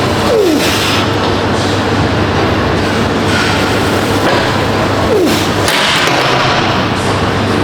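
Leg press machine's weighted sled rolling on its rails, a steady rumble with a falling squeak twice, about five seconds apart.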